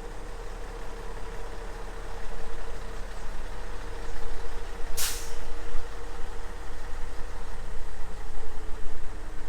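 Heavy truck diesel engine running steadily, with a short, sharp hiss of air about five seconds in.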